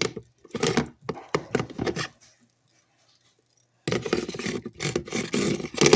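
Plastic spin basket of a portable folding washing machine being pushed and snapped into its tub: a sharp click at the start, then knocks and rubbing of plastic on plastic, in two bouts split by a gap of silence.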